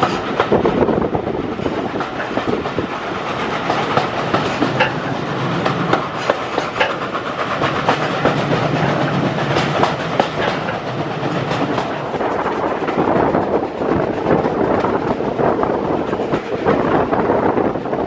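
British Railways Mk1 passenger coach running along the line, heard from on board. A steady rumble of wheels and running gear, with frequent short clicks and knocks.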